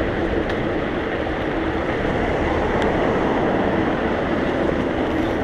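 Steady wind rush and low rumble on the microphone of a mountain bike that is being ridden, mixed with tyre and road noise.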